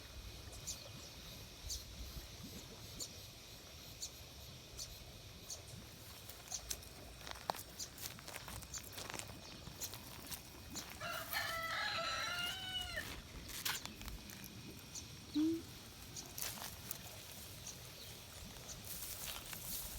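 A rooster crows once, a call lasting about two seconds, near the middle. A few seconds later comes a short low-pitched sound, the loudest moment. Faint scattered clicks run throughout.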